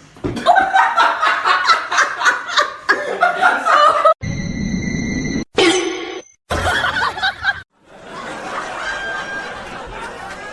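A person laughing hard in rapid pulses for about four seconds, then abrupt cuts to short clips: a second of steady tones, a brief gliding sound, and a quieter stretch of background noise.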